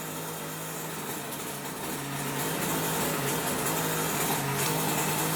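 Toshiba washing machine's motor running with a steady hum, growing a little louder about two seconds in.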